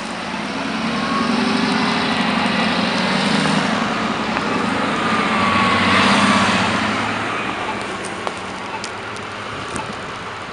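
A city transit bus driving past: engine hum and road noise swell to a peak about six seconds in, then fade.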